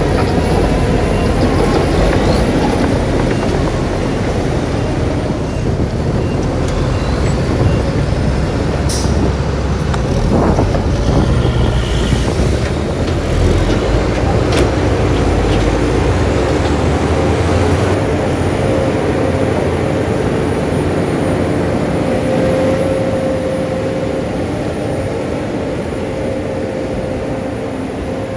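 Heavy diesel earthmoving machinery working, a steady loud engine rumble with a few sharp metallic clanks. The deep rumble eases off about two thirds of the way through, leaving a steadier mid-pitched hum.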